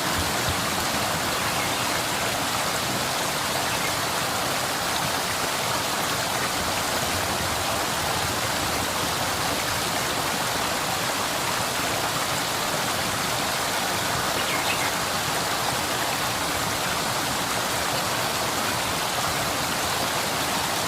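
Waterfall and stream water rushing steadily: an even, unbroken hiss of falling and flowing water.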